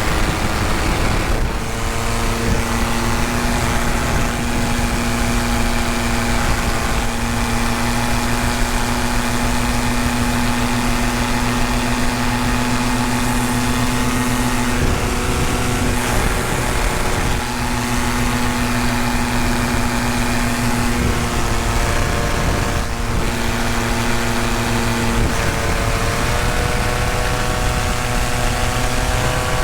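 Tandem paramotor's engine and propeller running steadily in flight, a continuous drone whose pitch shifts slightly a few times.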